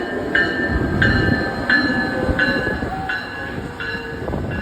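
A train rumbling through the station, with a couple of deep knocks from below. Over it a high ringing tone sounds again and again, about one and a half times a second.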